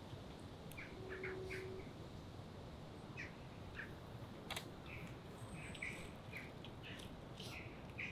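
Small birds chirping faintly in short scattered calls, with a sharp click about halfway through.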